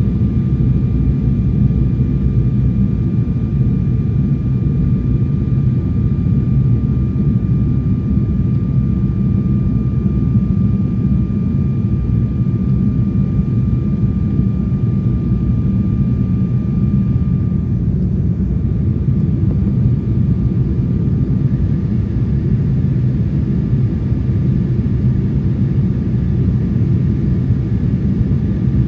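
Steady jet airliner cabin noise on approach: a loud, even low rumble with a faint thin whine that drops out about two-thirds of the way through, and a different faint tone coming in a few seconds later.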